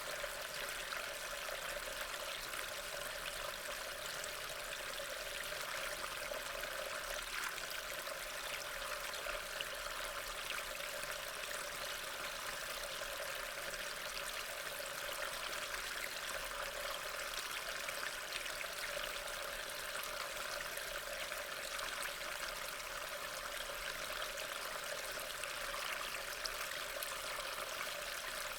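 Steady rain: a continuous, even hiss of falling rain.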